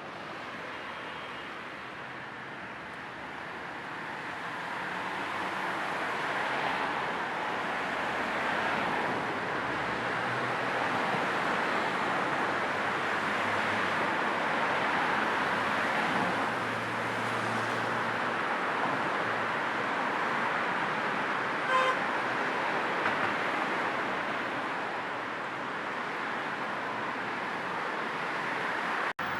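Steady road and tyre noise from a moving car, blended with a low white-noise hiss, swelling over the first few seconds and then holding even. A short car-horn toot sounds about three quarters of the way in, and the sound drops out for an instant near the end.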